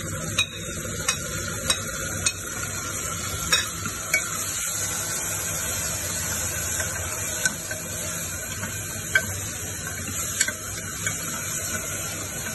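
Browned onions and masala sizzling in hot oil in a pressure cooker while a spoon stirs them, clicking and scraping against the pot now and then.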